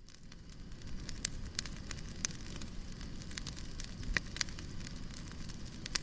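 Wood fire crackling, with irregular sharp pops over a steady low rumble; the sound swells in over the first second.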